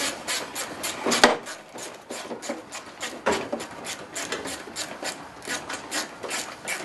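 Ratchet wrench with a 10 mm socket clicking in quick, uneven strokes while a bolt is worked loose, with a sharper snap about a second in.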